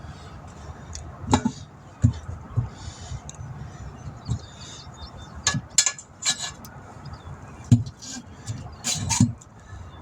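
Irregular metallic clinks and knocks of a tire being worked onto a wheel rim with tire-changing tools, as the tire bead is forced over the rim edge.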